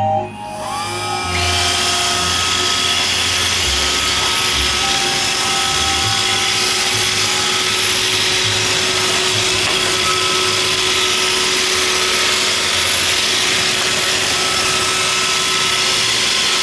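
iRobot Roomba 561 robot vacuum starting up: its vacuum motor and brushes spin up with a rising whine about a second in, then run steadily with a loud whir.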